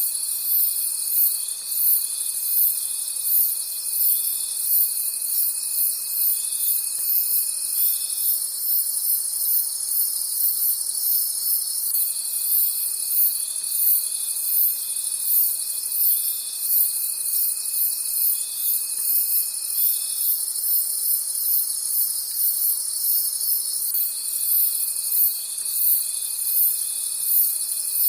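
Night chorus of crickets: several chirp together, one with rapid, evenly spaced high pulses over a steady high trill. A lower, continuous trill runs in stretches of about eight seconds, breaking off and starting again twice.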